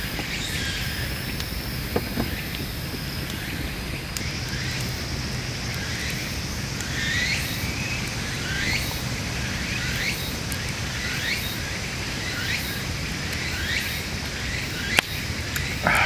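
Woodland birdsong: a bird repeating a short chirp about every two-thirds of a second from about six seconds in, over a steady background rush, with two sharp clicks, about two seconds in and near the end.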